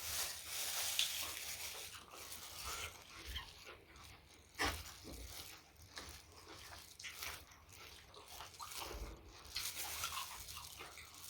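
Close-miked eating sounds: a person chewing and biting food, with irregular crunches and wet mouth clicks, one sharper crunch about four and a half seconds in.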